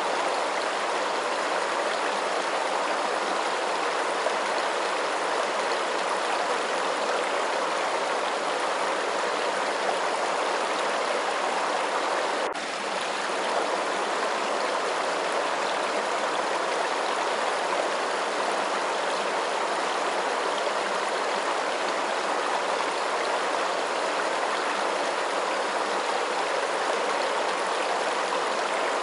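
Steady rushing of running water, like a flowing stream, with a momentary dip in level near the middle.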